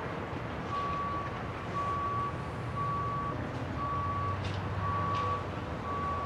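Vehicle back-up alarm beeping: six steady single-pitch beeps, about one a second, over a low engine rumble.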